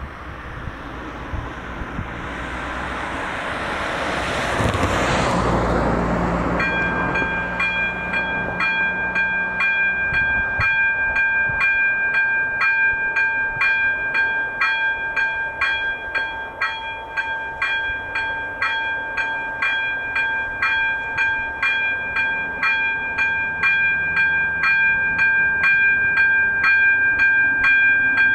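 A road vehicle passes, its noise swelling and fading. About six and a half seconds in, a ZV02 electronic level-crossing bell starts ringing, a steady ringing tone struck about twice a second: the crossing's warning for an approaching train.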